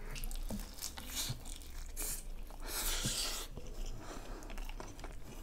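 A person chewing a mouthful of chicken and biryani rice, with irregular crunching and mouth noises.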